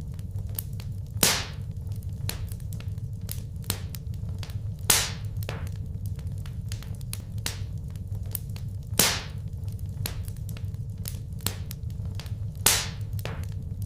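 Wood fire crackling in a fireplace: a dense run of small sharp crackles, with four louder pops spaced about four seconds apart, over a steady low rumble.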